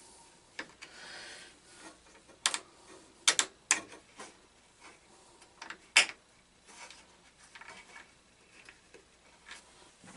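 Sharp clinks and knocks of tools and metal parts being handled during a riding-mower teardown. There is a single knock, then a quick cluster of three a second later, and the loudest strike a couple of seconds after that, with light rattling in between.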